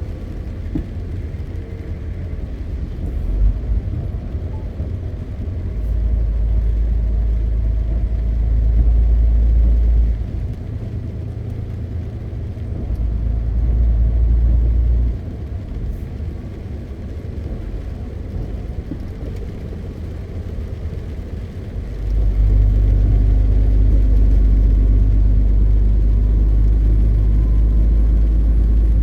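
MAN TGX 520 truck's straight-six diesel running on the road with a steady low rumble. The rumble grows heavier three times: for a few seconds about a fifth of the way in, again around the middle, and for the last quarter, easing back in between.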